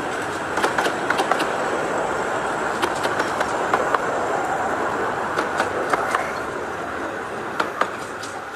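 Rake of 15-inch-gauge miniature-railway coaches rolling slowly past, with a steady rumble and irregular sharp clicks as the wheels cross rail joints and points. The sound fades near the end as the train draws away.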